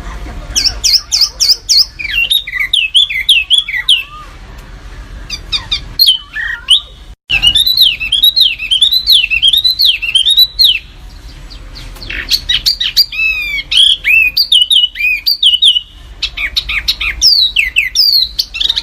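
A songbird singing in fast, tightly packed volleys of sharp, high repeated notes, each volley a quick run of falling or arching whistles, broken by brief pauses: the sharp, dense 'tembakan' bursts prized in masteran tutor song.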